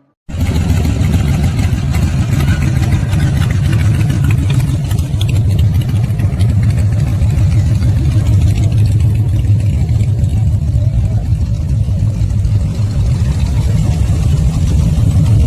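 Harley-Davidson V-twin motorcycle engine idling steadily while warming up, with a deep, even exhaust note; it cuts in abruptly just after the start.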